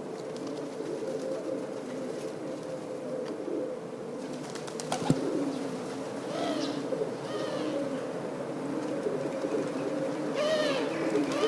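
Many pigeons cooing together in a steady, overlapping chorus, with one sharp click about five seconds in and a few higher bird chirps near the end.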